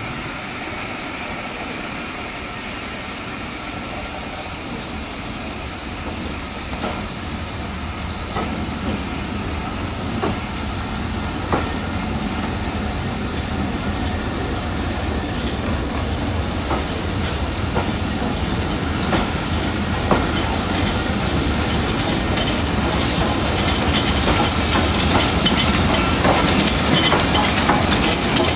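Slow-moving train of passenger coaches with a steam locomotive rolling past, wheels clicking over rail joints, with thin high wheel squeals. It grows steadily louder as the locomotive end approaches.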